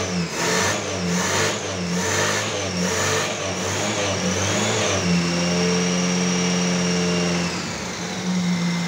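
Fiat 147's four-cylinder petrol engine running on its first start after sitting eight months, fed from an improvised fuel jug rather than the tank. It is revved by hand at the engine, rising and falling about once a second, then held steady from about five seconds in, with a high whine on top.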